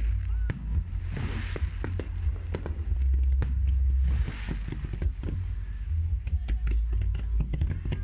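Fireworks display bursting: many sharp bangs and crackles in quick succession over deep, rumbling booms.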